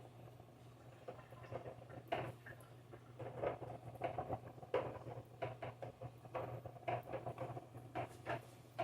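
Irregular light clicks, taps and rustles of hands handling food and utensils during kitchen prep, over a steady low hum.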